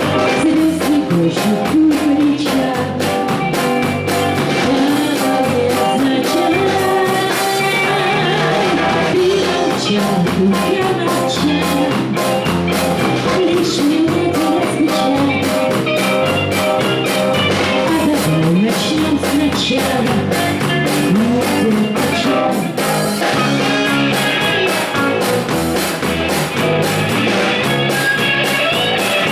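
Live band playing a rock-style song with guitar over a steady bass and drum rhythm, a melodic lead line bending in pitch above it.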